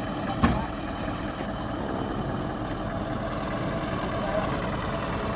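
A heavy truck's engine running steadily with a low rumble. A single sharp knock comes about half a second in.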